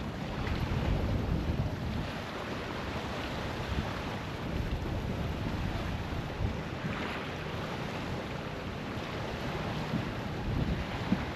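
Wind buffeting the microphone, with choppy water lapping against a kayak, as a steady rushing noise.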